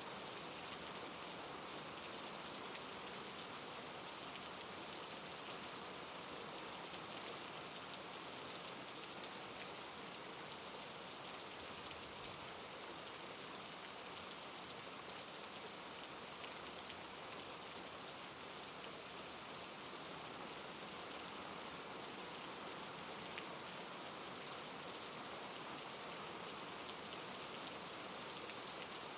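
Steady soft rain falling, an even hiss with scattered patter of drops.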